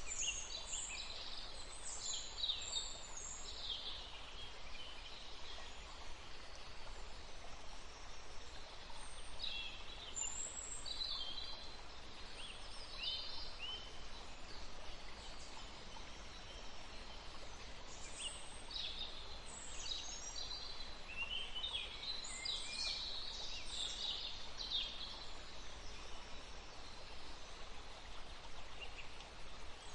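A woodland stream running steadily, with songbirds calling in short bursts of high chirps several times over it.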